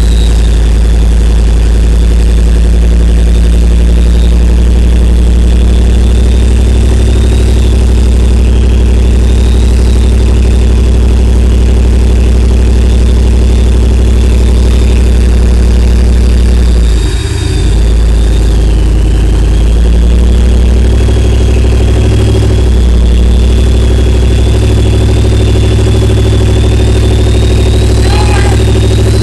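An engine running steadily and loud, close to the microphone, with a brief dip about seventeen seconds in.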